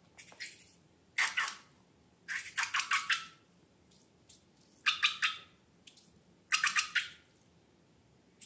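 Slime being squeezed and worked by hand, in four short bursts of rapid sticky clicking and squishing.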